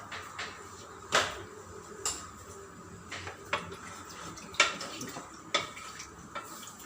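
Metal spoon clinking and knocking against a cooking pot, about eight sharp knocks at uneven intervals.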